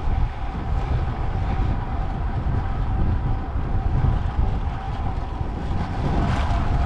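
Wind buffeting the microphone and road noise from a road bike riding along at speed: a steady low rumble with a faint, steady hum running underneath.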